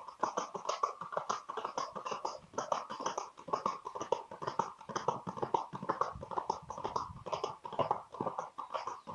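A gaited horse's hooves striking the ground in a rapid, even rhythm of many sharp beats a second.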